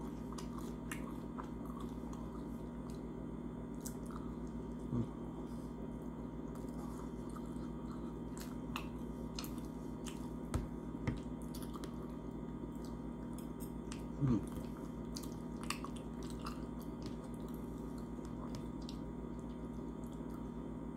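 Close-miked chewing and soft mouth sounds of someone eating a beef patty, over a steady low room hum, with a few brief louder clicks and smacks.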